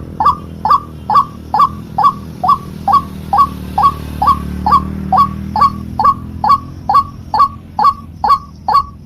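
White-breasted waterhen (ruak-ruak) call played as a trapper's lure: one short note dropping in pitch, repeated evenly about twice a second, over a steady low hum.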